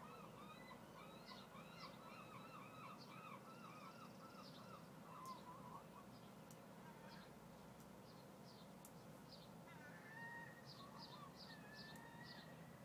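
Birds calling faintly: a quick run of repeated calls through the first five seconds or so, scattered short high chirps, and another run of calls starting about ten seconds in.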